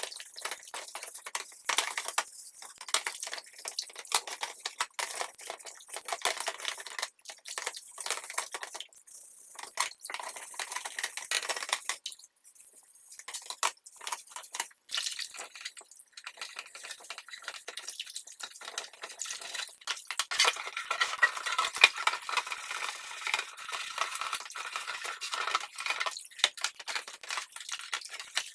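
Hand work on small metal clock parts: a dense, irregular run of scraping and light metallic clinking, busier in the last third.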